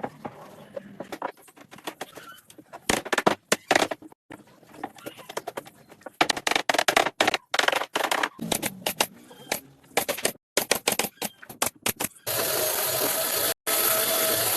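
Rapid, irregular tapping and clicking of woodworking tools on wood. About twelve seconds in, a power tool starts suddenly and runs steadily.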